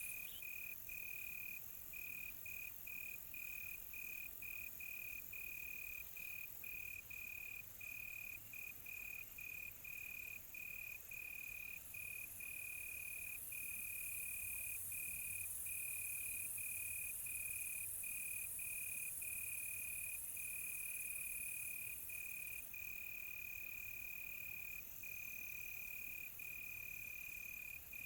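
Crickets chirping: a steady high trill broken by short, frequent gaps. Over it, a very high insect hiss grows louder through the middle and drops back a few seconds before the end.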